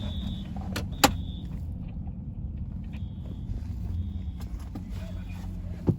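Motor vehicle engine idling with a steady low rumble, with a sharp click about a second in and another just before the end.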